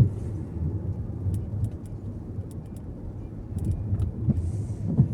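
Car interior at night driving: a steady low rumble of engine and road noise, with a few scattered small clicks and ticks.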